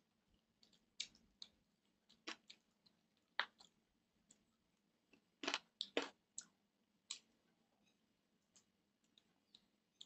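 Close-miked eating sounds: a man chewing a mouthful of rice and curry eaten by hand, with irregular wet mouth clicks and lip smacks. A quick cluster of louder smacks comes about five and a half to six seconds in.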